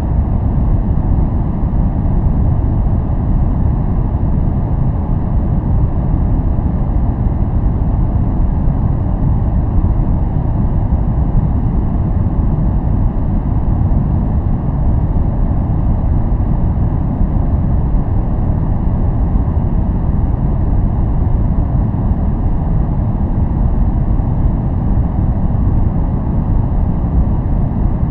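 Steady, unbroken white-noise track for focus, its energy weighted toward the low end so it sounds deep and muffled, without a high hiss.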